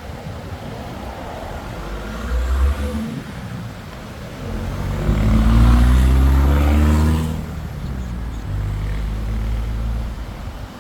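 A motor engine passing close, its pitch rising as it gets louder. It is loudest about halfway through, then drops back to a lower steady running sound.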